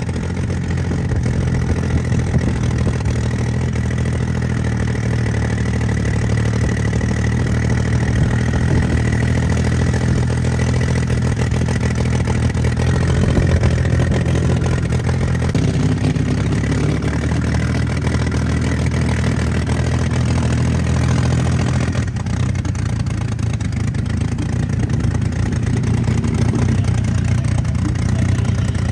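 Small off-road vehicle engine running steadily while riding along, its note shifting a little about halfway through and again later.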